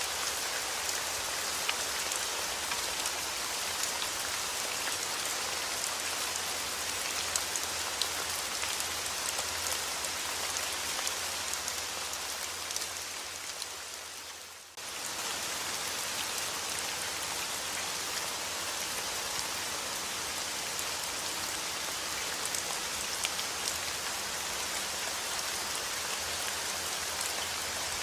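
Steady rain falling on a surface, with scattered sharp drop ticks. About halfway it fades down over a couple of seconds, then cuts straight back in at full level.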